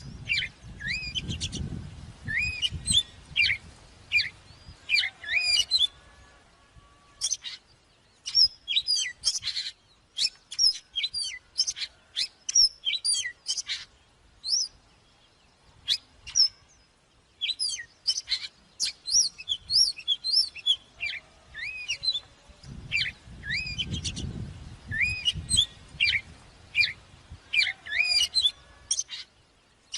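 Oriental magpie-robin singing: phrases of quick, varied whistles and sweeping notes with short pauses between them. A low rumble sounds under the song near the start and again about three quarters of the way through.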